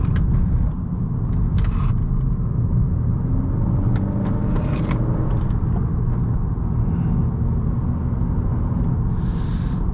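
A 2018 Honda Accord's 1.5-litre turbocharged four-cylinder and tyres running steadily on a winding road, a continuous low rumble with the engine note rising briefly in the middle and a few light clicks.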